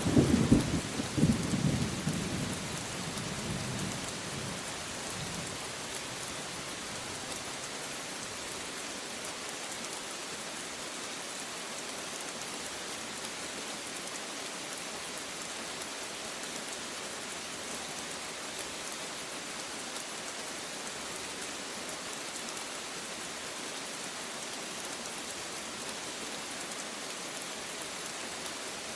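A roll of thunder rumbling and fading away over the first few seconds, leaving steady heavy rain falling with an even hiss.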